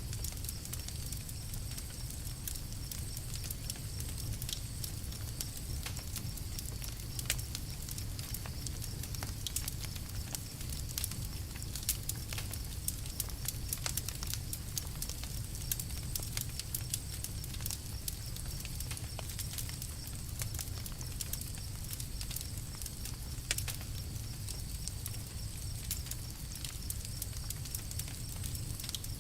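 Campfire crackling: irregular sharp pops and snaps, some louder than others, over a steady low rumble.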